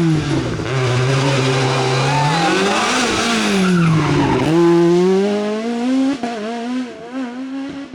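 Rally car engine revving hard through a hairpin: the revs rise, drop sharply as the car brakes and turns, then climb again as it accelerates away, with tyres skidding and squealing. The engine fades after about six seconds.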